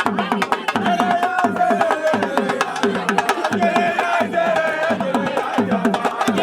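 Live drumming in a fast, steady rhythm, with a voice singing a wavering melody over the drums.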